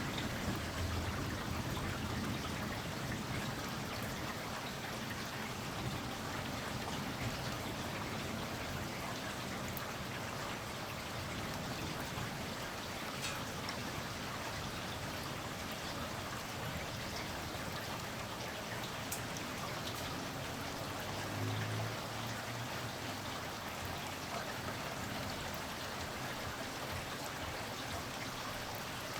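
Steady rain falling, an even hiss of drops on surfaces, with a brief low rumble about two-thirds of the way through.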